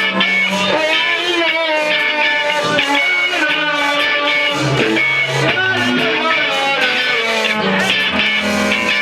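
Live band playing, with electric guitar to the fore over sustained bass notes.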